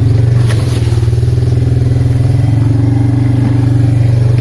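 Arctic Cat 366 ATV's single-cylinder engine running steadily as it is ridden, with a short crackling scrape about half a second in.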